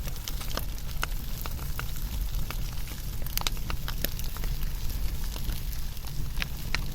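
Wood fire burning: irregular sharp crackles and pops, a few a second, over a steady low rumble of the flames.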